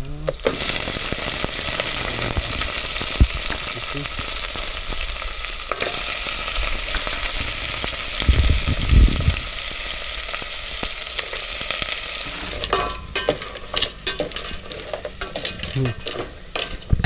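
Garlic, onion and ginger sizzling in hot oil in an aluminium pot on a gas stove while crabs and shellfish are added. About thirteen seconds in the sizzle drops and a ladle clicks and scrapes against the pot as the seafood is stirred.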